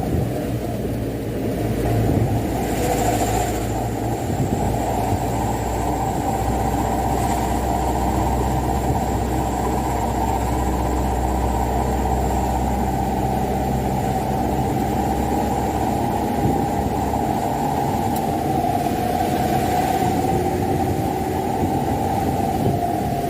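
Mitsubishi Canter dump truck's diesel engine running steadily under a heavy load of wet sand, with road noise from the moving truck.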